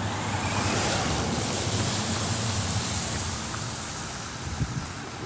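Electric RC truck running over wet ground: a high motor whine over a steady hiss of tyres through water, louder in the first couple of seconds and then slowly easing off.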